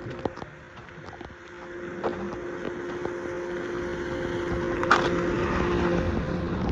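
A motor vehicle engine running with a steady whine, growing louder, with wind noise on the microphone and scattered clicks.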